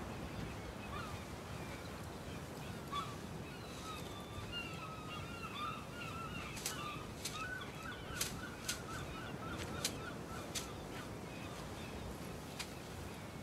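Birds calling in a run of quick chirping notes over a steady outdoor background hiss, with a handful of sharp clicks in the second half.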